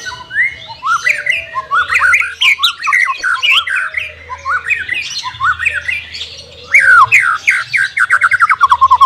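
White-rumped shama (murai batu) singing a rapid, varied song of whistles, chirps and glides, ending in a fast loud run of falling notes.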